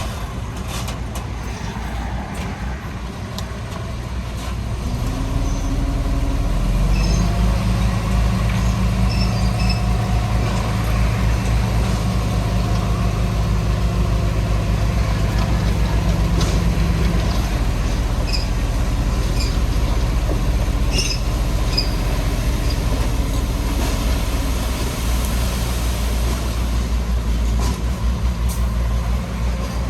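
Heavy diesel engine of earthmoving machinery running continuously, working harder from about seven seconds in and easing off again around seventeen seconds. Scattered short high-pitched tones sound over it in the middle of the stretch.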